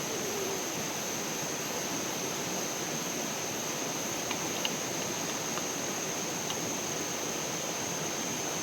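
Steady rushing of flowing water, with a few faint ticks about halfway through.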